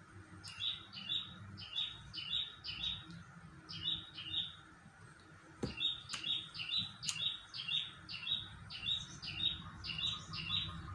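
A small bird chirping in quick runs of short, high chirps, two to three a second, in two bouts with a short pause between them. A single click falls in the pause.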